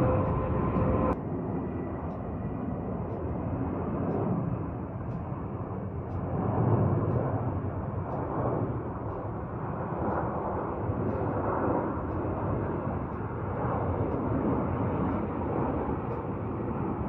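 Jet airliner landing, its engines heard as a steady roar and rumble that swells and ebbs. A whining tone in the first second stops abruptly at a cut about a second in.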